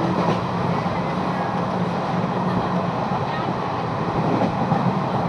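Moving train, a steady running noise of the wheels on the rails.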